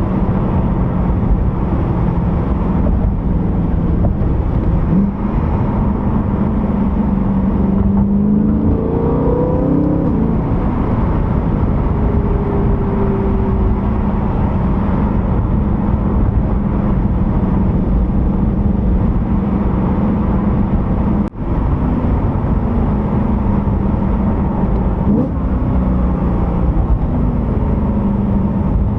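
E92 BMW M3's 4.0-litre V8 running under way, a steady engine drone over road noise, its pitch rising and falling a few times.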